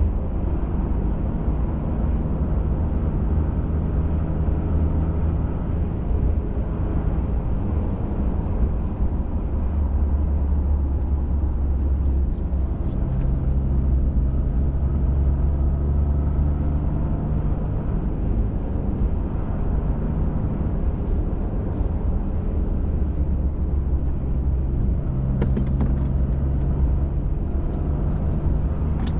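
Pickup truck engine and tyre drone heard from inside the cab while driving at a steady pace. The engine note steps to a new pitch about halfway through and again near the end, over a few faint ticks.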